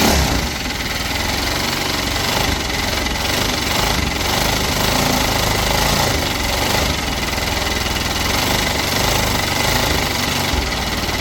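The repaired motor tricycle's engine running loudly and steadily, starting abruptly.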